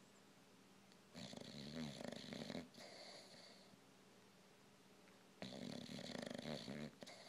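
An old English bulldog snoring in its sleep: two long, loud snores about four seconds apart, each followed by a softer breath.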